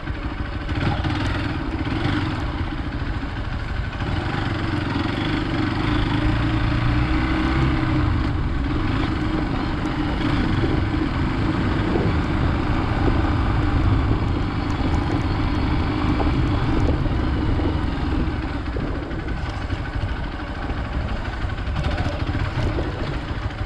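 Hero Xpulse 200 motorcycle's single-cylinder engine running steadily as the bike is ridden.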